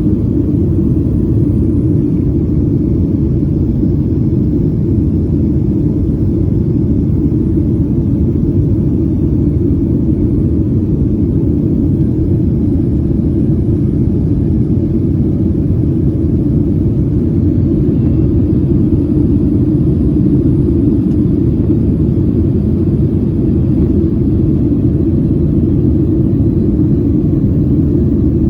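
Steady low roar of a Boeing 737's engines and rushing air, as heard inside the passenger cabin.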